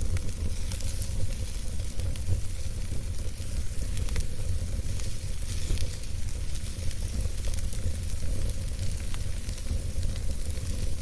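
Campfire burning steadily: constant crackling and snapping over a low rumble of the flames.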